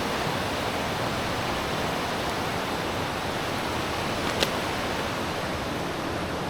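River water rushing, a steady even rush, with one sharp click about four and a half seconds in.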